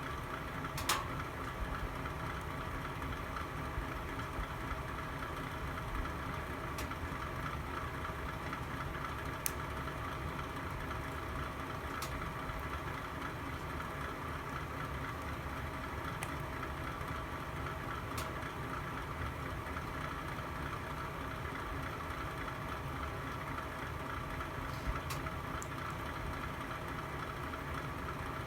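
Log fire burning in a fireplace: a steady low rumble and hiss with sharp crackles every few seconds, the loudest about a second in.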